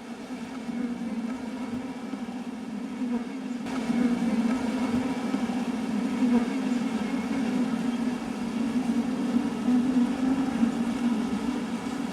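A honey bee colony buzzing as one steady, dense hum, made by many bees disturbed as their hive inside a bucket is opened. The buzz grows louder about four seconds in.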